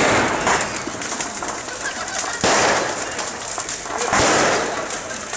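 Fireworks going off: sudden bangs about two and a half seconds in and again about four seconds in, each followed by a dense crackle that fades away over a second or so.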